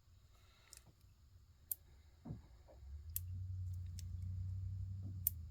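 Small decorative rocks clicking as they are set into a miniature resin pond, a few sharp separate ticks. A low steady hum comes in about halfway through.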